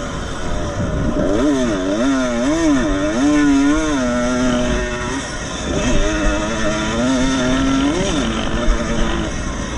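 Vintage 125 cc two-stroke motocross motorcycle engine running under hard use, its pitch repeatedly rising and falling as the throttle is worked, with a couple of steadier stretches between.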